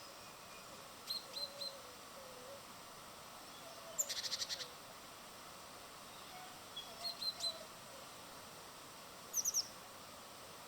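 Small birds calling at a bird feeder: short high chirps in groups of two or three, a quick run of about eight notes about four seconds in, and more chirps near the end.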